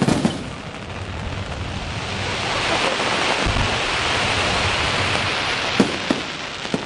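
Aerial fireworks: a couple of bangs at the start, then a dense crackling hiss from a mass of glittering effects that swells and holds, with two sharp bangs near the end.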